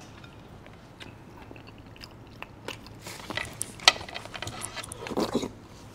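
Close-miked eating sounds: a few soft mouth clicks, then from about three seconds in a busy run of wet clicks and smacking as a spoonful of soft food is taken and chewed.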